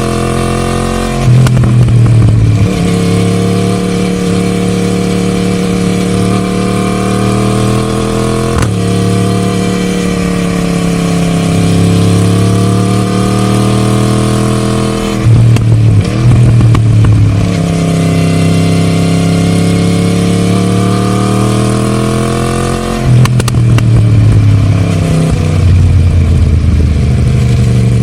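Yamaha MT-10 Gen 2 crossplane inline-four exhaust on a Scorpion decat pipe with the stock silencer, heard while riding. The engine note rises and falls with the throttle, with sudden changes in pitch and loudness four times.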